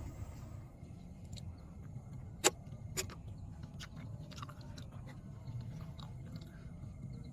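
Scattered sharp clicks and taps over a low steady rumble, with two louder snaps about two and a half and three seconds in.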